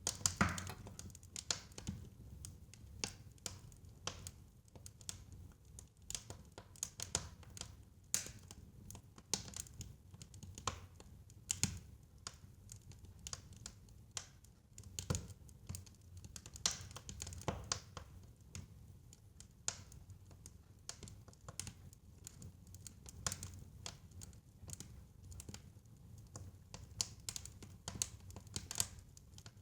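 Fire crackling in a fireplace: irregular sharp pops and snaps, a few louder ones, over a low steady rumble.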